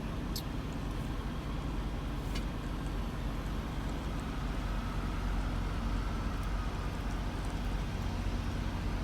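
Steady low engine rumble, like a vehicle idling, with two faint clicks about half a second and two and a half seconds in.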